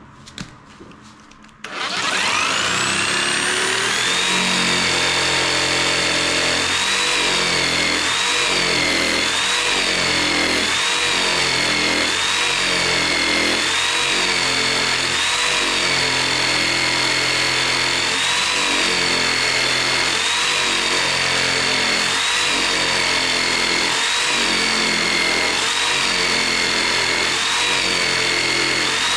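Electric jigsaw starting about two seconds in and cutting steadily through a thick beam of dense, hard timber. Its motor whine dips in pitch in a regular rhythm, a little over a second apart, as the blade labours in slow, heavy going.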